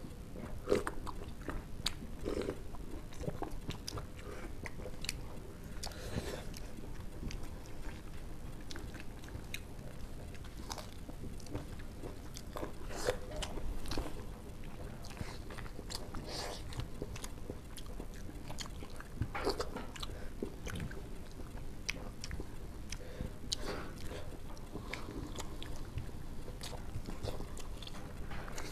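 Close-up eating sounds of two people eating rice and egg curry by hand: chewing, with many short wet mouth smacks and clicks scattered throughout.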